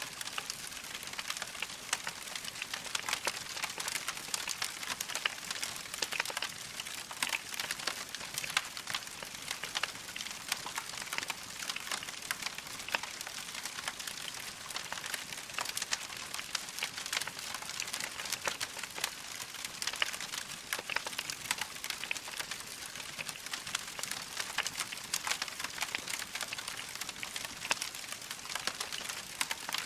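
Wood fire crackling in a fireplace: a steady soft hiss thick with small pops and snaps.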